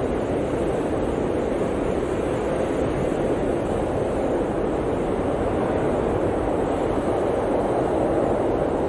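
Blizzard wind blowing steadily: a dense, deep rushing noise at an even level, with no gusts or breaks.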